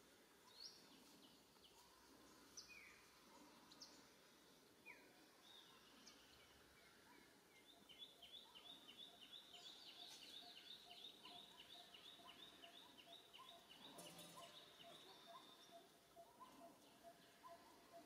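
Faint background bird calls: scattered short chirps, then a fast run of repeated high chirps, about four a second, for several seconds in the middle, over a slower string of low, evenly spaced notes. A single sharp click comes near the end of the run.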